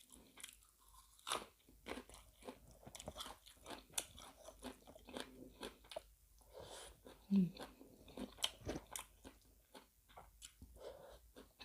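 Close-up eating sounds: irregular crunching bites and chewing of spicy seafood larb with fresh raw vegetables, and a short low hum of 'mm' about seven seconds in.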